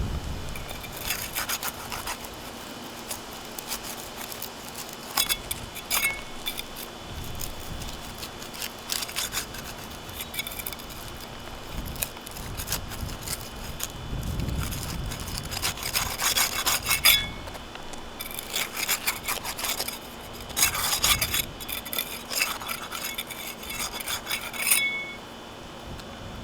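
Asphalt roof shingles being pried apart at their sealant strips, with the seals breaking. The scraping and crackling comes in repeated bursts of a second or two.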